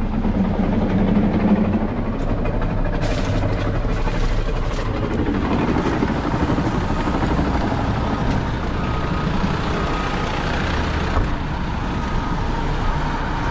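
Truck engine running steadily, with a hum that rises and falls in pitch near the start and a few faint clicks around three to five seconds in.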